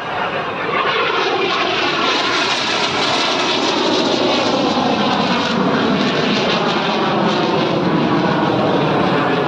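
Display aircraft flying past at an air show: a loud, steady rush of engine noise whose tone slowly shifts as it passes.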